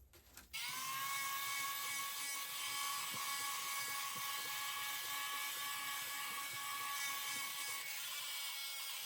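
A small electric motor whines steadily over a hiss, spinning up about half a second in and shutting off near the end.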